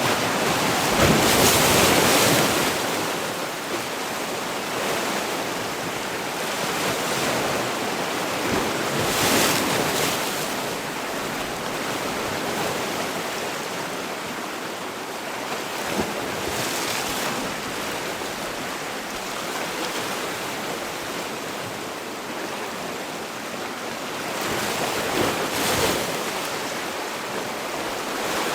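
Sea waves breaking on a shore, a continuous wash of surf with louder surges every several seconds, the strongest near the start.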